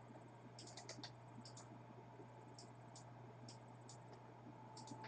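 Faint scattered clicking at a computer, mouse and keyboard clicks coming singly and in quick groups of two to four, over a low steady hum.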